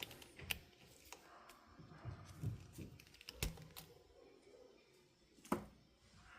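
Irregular light clicks and knocks of small hand tools and wire being handled on a workbench, about half a dozen, the loudest near the end.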